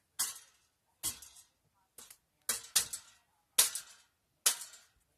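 A light-up toy tractor being banged against a hard surface, about seven sharp knocks at roughly one a second, the later ones loudest. It is knocked to make its light, which often fails to come on, work: a loose connection.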